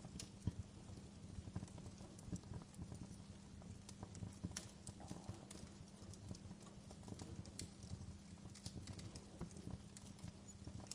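Wood fire crackling: irregular snaps and pops over a steady low rumble.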